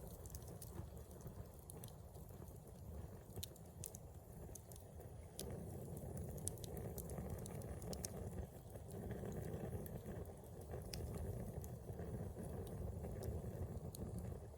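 Wood campfire burning, with scattered small crackles and pops over a low steady rumble that grows a little louder about five seconds in.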